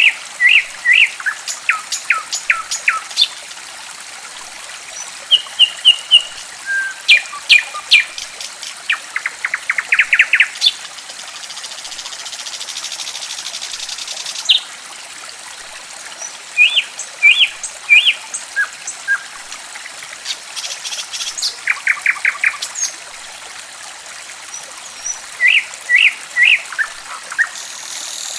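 Songbirds chirping in short repeated phrases, with two fast trills, over a steady trickle of running water. The water grows briefly louder about halfway through.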